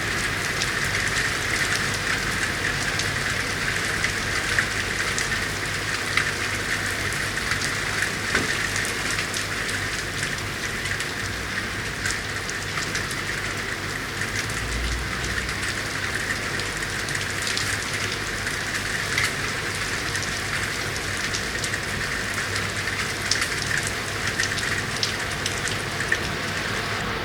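Steady rain falling on city streets and surfaces: a constant hiss with many individual drops landing sharply, over a faint steady low hum.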